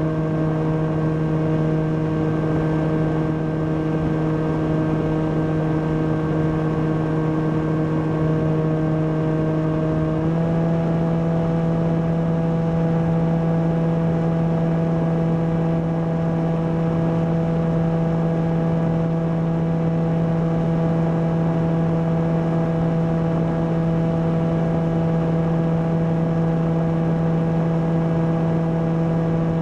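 Volantex Ranger EX RC plane's electric motor and propeller heard from the onboard camera in flight: a steady droning hum over a rush of air, its pitch stepping up slightly about ten seconds in as the throttle is raised, then holding.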